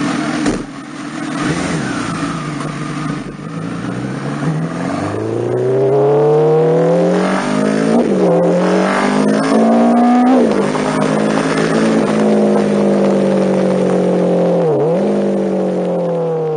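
MV Agusta Brutale's inline-four engine running at low revs, then pulling hard, its pitch rising and dropping back at each upshift. It then holds a fairly steady pitch, with one quick dip and recovery near the end.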